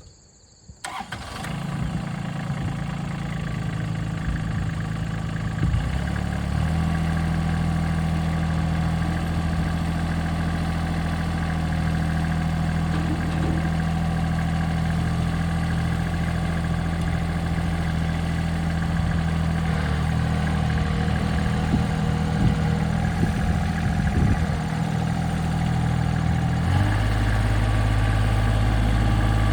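Case DX26 compact tractor's diesel engine running steadily. Its speed shifts about six seconds in and again near the end.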